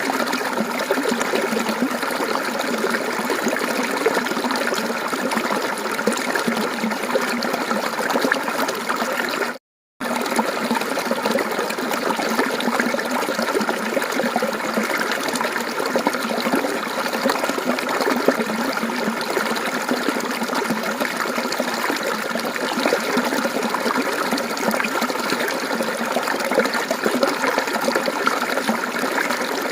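Mountain stream flowing steadily, a continuous splashing, trickling rush of water. It breaks off into silence for about half a second roughly ten seconds in, then carries on unchanged.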